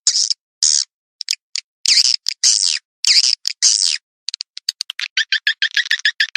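Swiftlet calls played as a lure: a fast series of sharp clicks and high, buzzy chirps about half a second long, breaking into a quicker run of rapid twittering in the second half.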